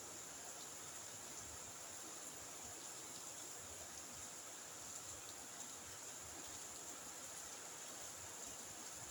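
Steady faint hiss of rain at night, with a steady high-pitched insect chorus over it.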